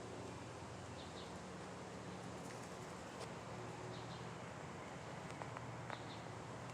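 Faint short chirps of an American robin, often in pairs, repeating every second or two over a steady low outdoor hum.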